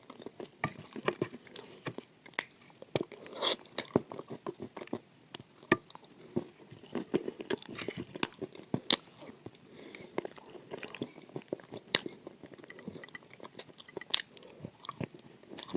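Close-miked chewing of crunchy food, with irregular sharp crunches a fraction of a second apart.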